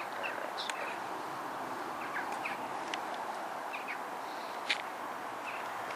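Scattered short bird chirps over a steady background hiss, with one sharper chirp about three quarters of the way through.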